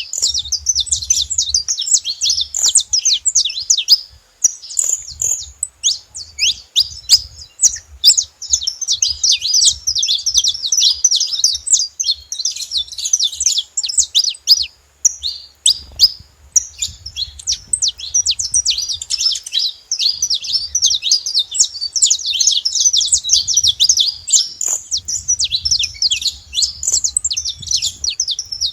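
Saffron finch chirping in a dense, rapid stream of short high notes, with brief lulls about four and fifteen seconds in.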